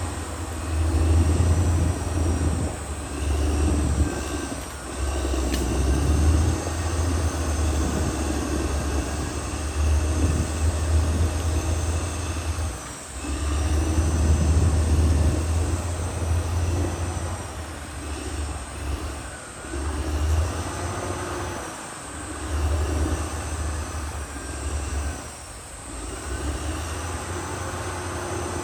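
Caterpillar D6R XL bulldozer working: its diesel engine runs under heavy load with a deep rumble that swells and eases repeatedly and dips briefly a few times, with a faint high whine above it.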